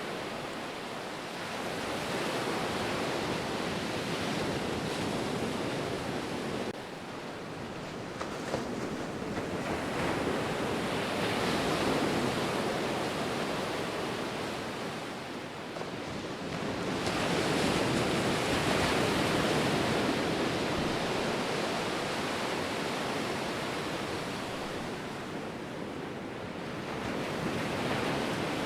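Ocean waves breaking and washing on the shore: a continuous rushing surf that swells and ebbs, with the loudest surges about a third and two thirds of the way through.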